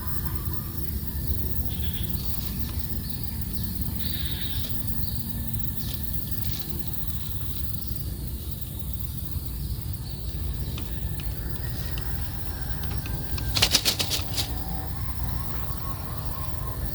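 A bird's wings flapping in a quick run of beats about three-quarters of the way through, over faint high chirps and a low steady rumble.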